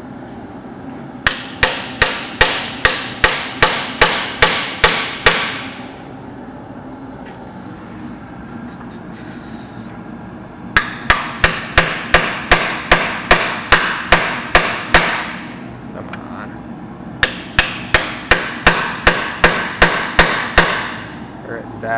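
Hammer blows on a stuck tractor housing, struck to knock it loose from where it sits on its dowels. The blows come in three runs of about a dozen strikes each, two to three a second, with pauses between the runs.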